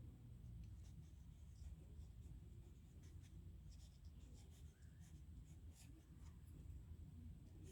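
Pen nib scratching on paper while writing: faint, short scratchy strokes at irregular intervals.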